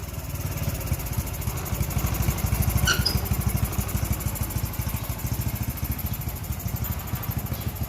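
Honda Wave 110i's single-cylinder four-stroke engine running at a steady low speed with even exhaust pulses, picking up a little about two to three seconds in. Its throttle body and fuel injector have just been cleaned to cure a bog when the throttle is opened.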